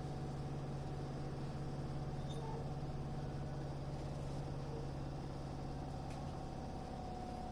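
Steady electrical hum inside a Tokyo Metro 8000 series commuter train car, two constant tones with no rise or fall in pitch; the lower tone drops out about six seconds in.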